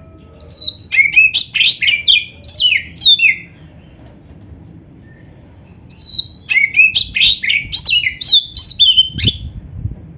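Oriental magpie-robin singing: two quick phrases of varied whistles and trills, each opening with a short falling whistle, separated by a pause of about two and a half seconds.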